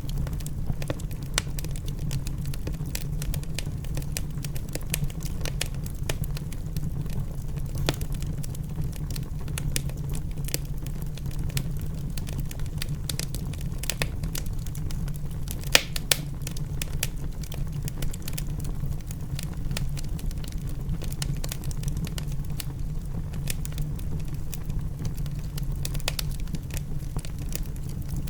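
Wood fire in a fireplace crackling, with many small sharp pops and one louder pop about sixteen seconds in, over a steady low rumble from the rain sound mixed into the ambience.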